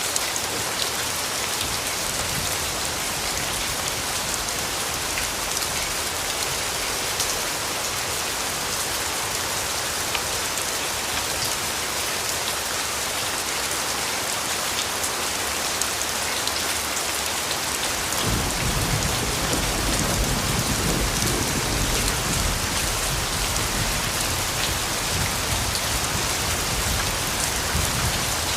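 Steady rainfall with many individual drops ticking through it. About two-thirds of the way through, a low rumble of distant thunder comes in and carries on.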